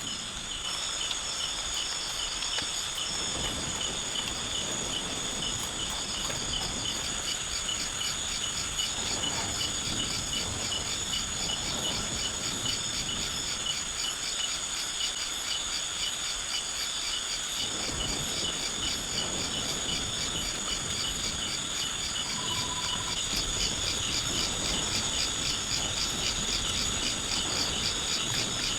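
Chorus of insects: several high-pitched, rapidly pulsing trills running on steadily together.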